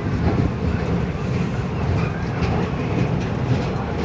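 Train running across a steel truss railway bridge, a steady loud rumble of wheels on rails, heard from inside the carriage at an open barred window.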